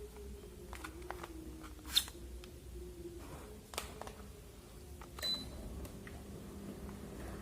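Sharp AH-AP12MHL mini split air conditioner beeping with short high beeps at about 2 seconds in and again near 5 seconds, among a few sharp clicks, over a low steady hum.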